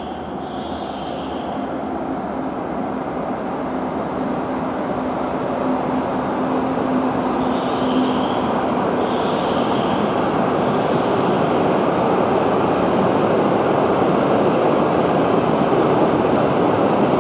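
Tohoku Shinkansen train running past the platform, a steady rushing noise that grows gradually louder throughout.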